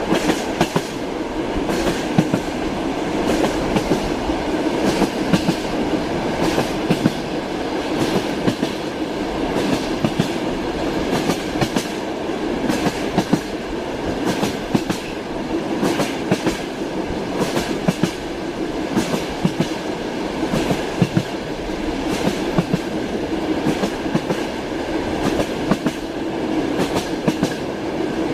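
Train wheels clacking over rail joints: sharp clicks at uneven intervals over the steady rumble of a moving railway car.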